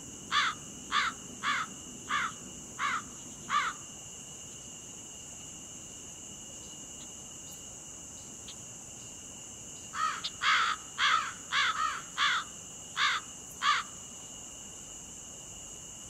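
A bird calling in short repeated calls, about two a second: six calls in the first few seconds, then a faster run of overlapping calls from about ten seconds in. A steady high insect drone, typical of crickets, runs underneath.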